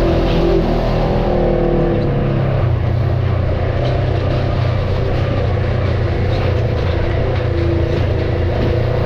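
Off-road vehicle engine running steadily under low load, its note dropping and settling about two seconds in.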